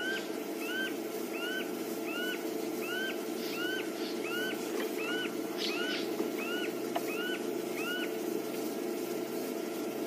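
Common scimitarbill calling: a regular series of about a dozen high whistled notes, each rising then falling, at about one and a half a second, stopping about eight seconds in. A steady low hum runs underneath.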